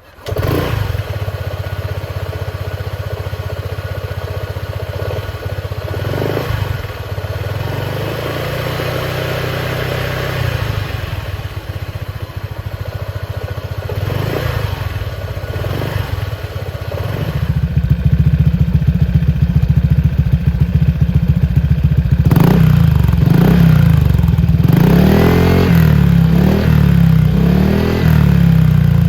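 Honda ADV150 scooter's single-cylinder engine running through an aftermarket Yoshimura exhaust: it starts suddenly, idles, and is revved up and down several times. It is louder in the second half, with a string of revs near the end.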